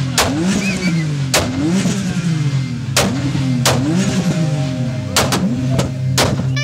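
Tuned BMW 3 Series engine blipped hard again and again while the car stands still, its pitch rising and falling over and over, with about six sharp exhaust bangs among the revs.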